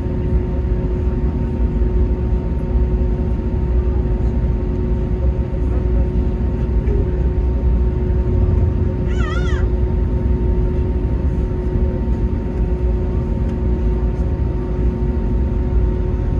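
Airbus A321neo engines running at low power, a steady low rumble with a steady hum. About nine seconds in comes one short wavering high cry, like a meow.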